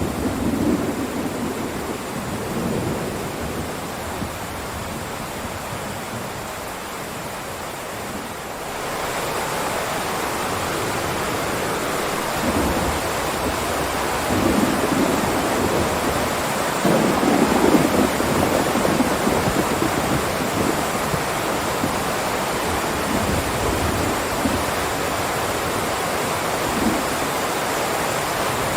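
Heavy rain downpour as a steady hiss, with low rumbles of thunder swelling and fading. About nine seconds in, the rain abruptly turns louder and brighter.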